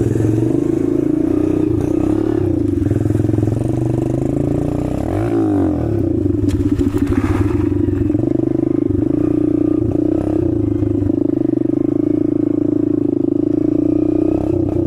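Warmed-up dirt bike engine idling steadily, with a brief wobble in pitch about five seconds in.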